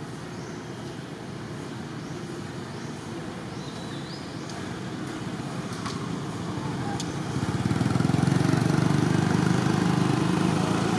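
A motor vehicle's engine running, growing louder about eight seconds in as it draws close.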